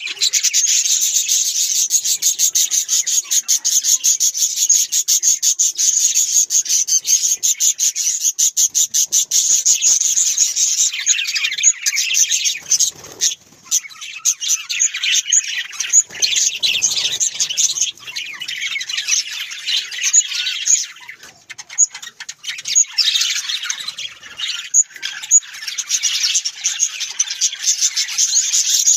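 A group of budgerigars chattering: a dense, continuous run of fast high chirps and warbles.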